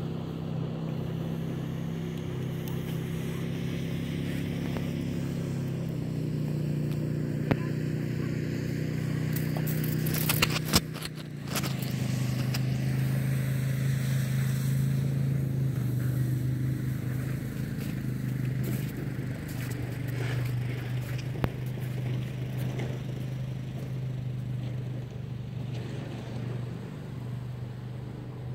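A motor vehicle engine idling steadily, a low hum whose pitch steps down a little twice. A brief burst of clicking and rattling comes about ten seconds in.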